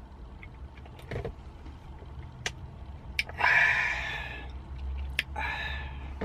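Iced cappuccino being sipped through a straw: two hissing slurps, the longer one a little past the middle and a shorter one near the end, with a few light clicks over a low steady hum.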